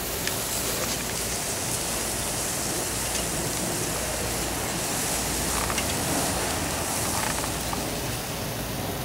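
Steady rain falling, with a few faint scattered ticks.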